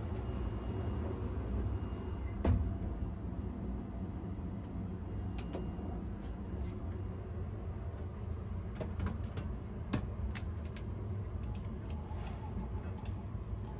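Steady low rumble of the 285 series Sunrise Izumo/Seto sleeper train running, heard inside the carriage, with scattered light clicks and rattles and one sharper knock about two and a half seconds in.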